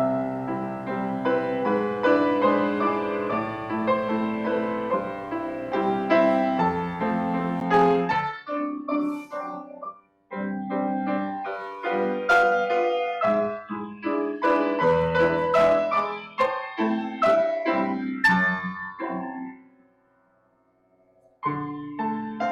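Piano playing the introduction to a choir anthem in slow phrases. It breaks off briefly about ten seconds in and pauses again for a moment near the end.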